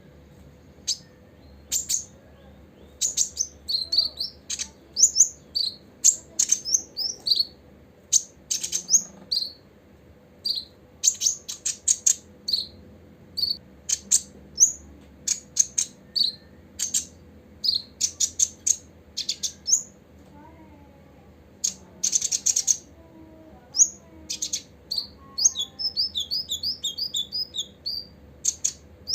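Copper-throated sunbird singing: a long series of sharp, high chirps and short squeaky notes in quick bursts, ending in an even run of repeated notes.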